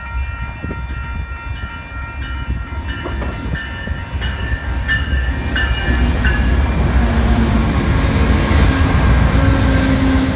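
A passenger train pulling in, its rumble growing steadily louder, with a bell ringing at an even beat through the first half.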